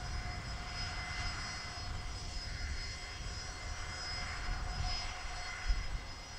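Jet engines of an Airbus A320 airliner running on the runway: a steady low rumble with a faint whine, swelling and easing slightly.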